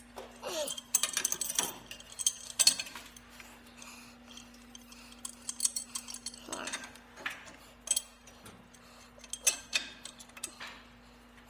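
Metal hand tools clinking and clanking in scattered knocks as a pipe wrench is handled and set on pipe fittings, over a steady low hum.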